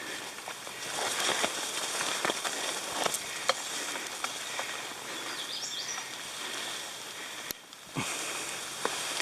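A hiker pushing through wet, overgrown brush: rustling leaves and scattered snaps of twigs and footsteps over a steady hiss of rain.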